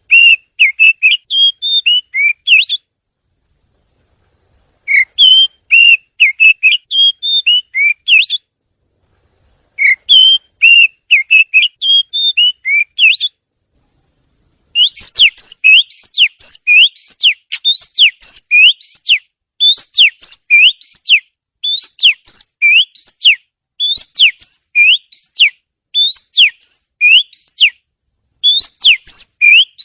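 Oriental magpie-robin (kacer) singing loud, fast, varied whistled phrases. Three phrases of a few seconds each are split by short silences, then from about halfway through it repeats short bursts of sweeping notes, about one a second.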